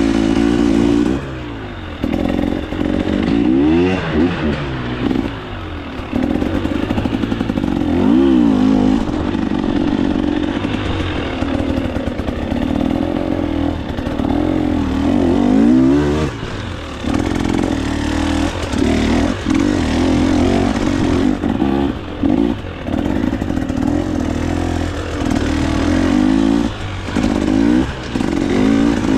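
KTM 300 XC-W single-cylinder two-stroke dirt bike engine revving up and down under load, its pitch rising and falling with the throttle, with several brief dips where the throttle is shut off.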